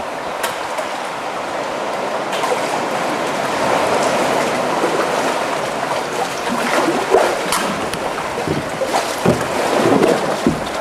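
Kayak paddling through a narrow sea cave: water sloshing and lapping around the hull, with scattered short paddle splashes and knocks.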